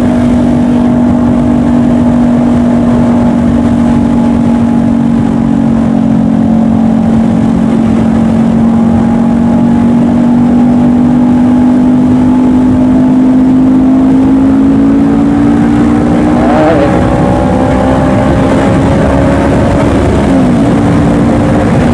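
Honda CBR500R parallel-twin engine running steadily while riding, its note rising slowly as the bike gains speed. The engine note briefly breaks about three-quarters of the way through and again near the end.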